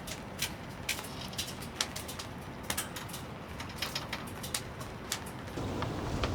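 Wood campfire crackling: irregular sharp pops and snaps over a steady hiss, with the hiss growing fuller near the end.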